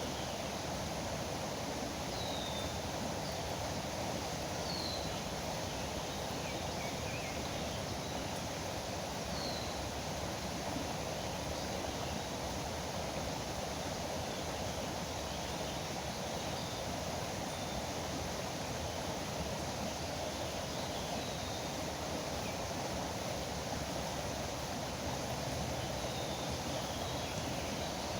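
River water rushing steadily, with a few short bird chirps in the first ten seconds and a couple more near the end.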